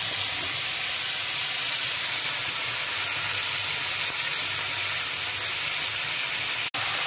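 Raw chicken pieces sizzling steadily as they fry in hot oil with browned sliced onions in a nonstick pan. The sizzle cuts out for an instant near the end.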